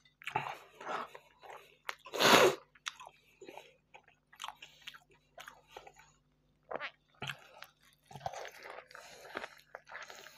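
Close-miked eating: a man biting into and chewing a bread wrap of meat and vegetables, in irregular short chewing sounds, with one loud bite about two seconds in.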